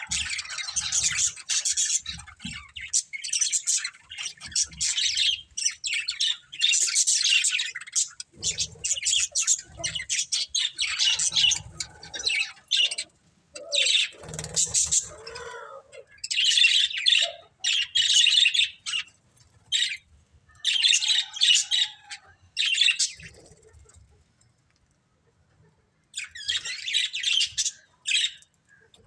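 Pet budgerigars chirping in rapid bursts, with a pause of about two seconds near the end.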